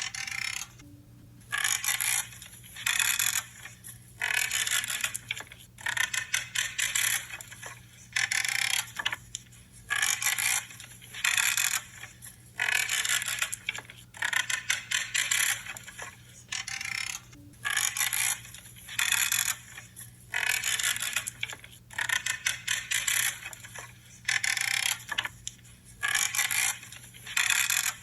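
Branches being trimmed, each cut giving a short creaking, crunching snap. The cuts come about once every second or so and each lasts under a second.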